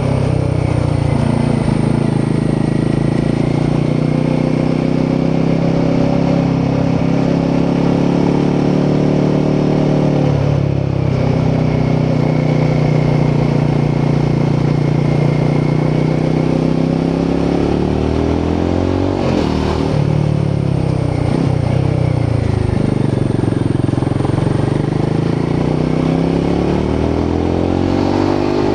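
Royal Enfield Himalayan 450's 452cc Sherpa single-cylinder engine and exhaust under way. The engine note holds steady, then dips and climbs again about eleven and twenty seconds in and once more near the end.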